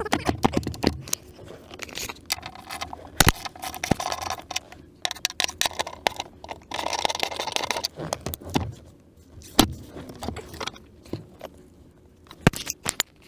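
Irregular metallic clinks, knocks and scraping from hand work on the battery hold-down bracket and its nuts while the battery is secured in its mount.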